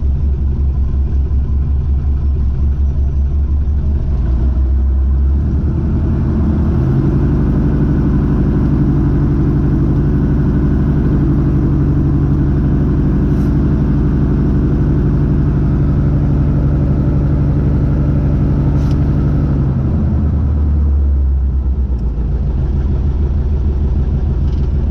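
Light aircraft's piston engine running: a low, lumpy idle that speeds up about six seconds in, holds steady at higher power, then drops back to idle about twenty seconds in.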